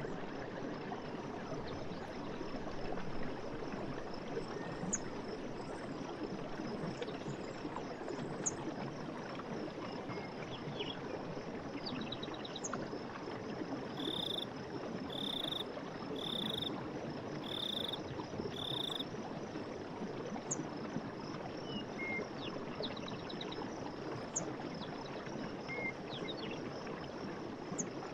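Night forest ambience: a steady rush of running water under a continuous faint insect chirring, with scattered short chirps. About halfway through, five short calls repeat about once a second.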